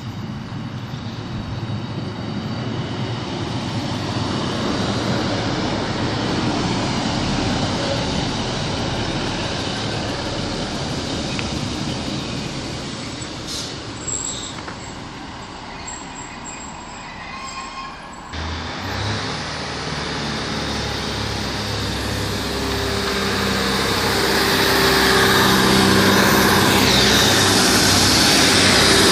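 A diesel multiple-unit train on the line: a rumble of wheels on rails, with a brief high squeal in the middle. About eighteen seconds in, a diesel engine's steady note takes over and grows louder toward the end.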